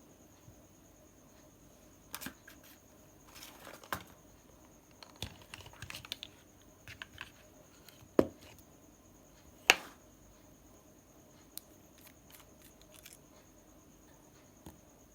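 A pen and its ink refill being handled close up: scattered small plastic clicks, taps and rustles, with two sharper, louder clicks past the middle, a second and a half apart.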